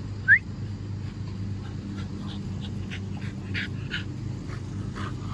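American Bully puppy panting after running fetch, with one short, high, rising squeak about a third of a second in. A steady low hum runs underneath.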